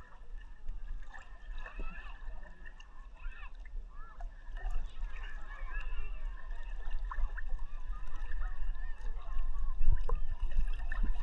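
Sea water sloshing and lapping around a camera held at the surface, with a low rumble from the water moving against it, and many short wavering calls or shouts in the distance.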